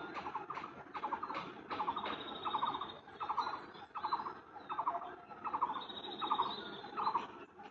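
A bird calling over and over in short trilled notes, about one every two-thirds of a second, with a thin high whine coming and going behind it.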